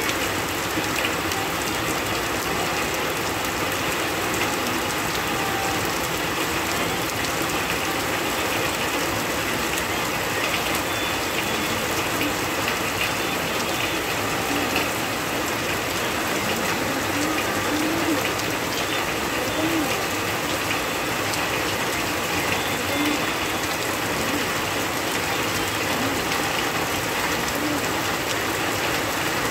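Heavy rain pouring steadily onto a paved road and wet ground: a dense, even hiss with a fine crackle of individual drops.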